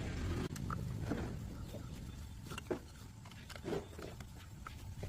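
A small Honda engine's low hum fades out in the first second, followed by scattered light clicks and knocks.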